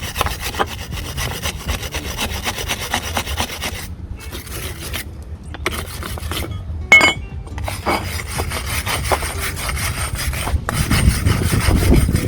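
Wire brush scrubbing rust and built-up brake dust off a steel brake caliper bracket in rapid back-and-forth strokes. The strokes pause briefly twice, and there is a short metallic clink about seven seconds in.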